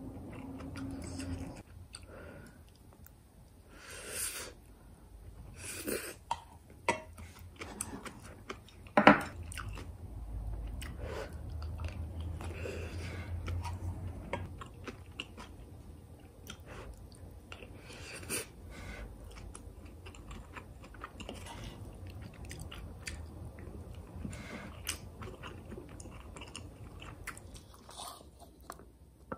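Close-up chewing of mouthfuls of kimchi fried rice, with a wooden spoon scraping and tapping the non-stick frying pan as the rice is scooped; one sharper knock about nine seconds in.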